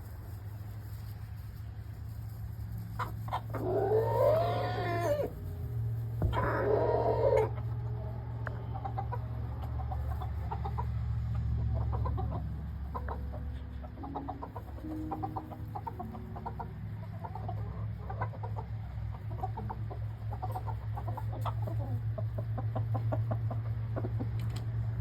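A flock of chickens clucking over a steady low hum. Two loud, drawn-out calls with an arching pitch come about four and six seconds in, followed by many short clucks.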